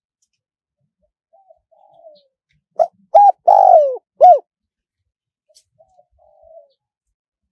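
Spotted dove cooing: a few soft, quiet notes, then four loud coos with the third drawn out and falling, then soft notes again. This is a wild-style, high-voiced song phrase, recorded as a decoy call to draw in wild doves.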